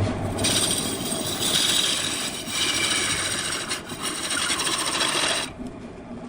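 Power tool working wood: a loud, harsh scraping hiss that cuts off about five and a half seconds in.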